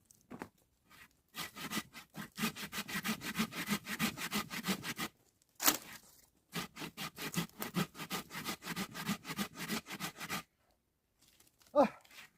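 Hand saw cutting through wood in quick back-and-forth strokes, about four a second, in two runs of about four seconds each. A single sharp knock falls between the runs.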